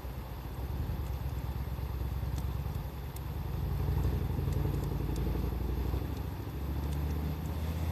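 Wood bonfire crackling, with scattered small pops and ticks, over a low, uneven rumble that swells about halfway through.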